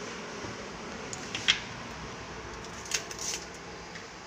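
Small metal hand tools clicking and scraping against a circuit board while a FET is being worked loose from the board: a sharp click about a second and a half in, another near three seconds with a short scrape after it, over a steady hiss.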